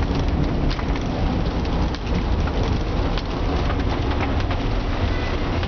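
Heavy rain on a moving taxi's roof and windscreen, heard from inside the cabin, over a steady low rumble of engine and tyres on the wet road. Many faint scattered ticks of drops run through it.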